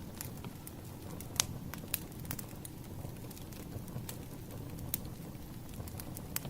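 Wood fire burning: irregular crackles and pops over a steady low rumble, with a sharp pop about a second and a half in.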